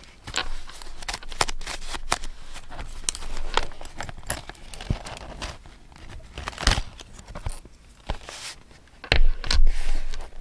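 Paper and stationery handled close to the microphone: irregular crinkling, rustling and tearing, broken by small clicks and taps. A louder burst of handling with soft thuds comes near the end.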